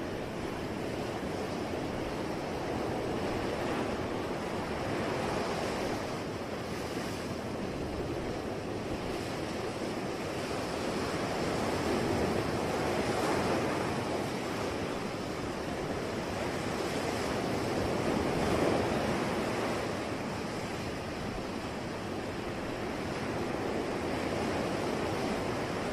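Sea waves breaking and washing on a shore: a continuous rush of surf that swells and ebbs slowly, with the biggest waves about halfway through and again a few seconds later.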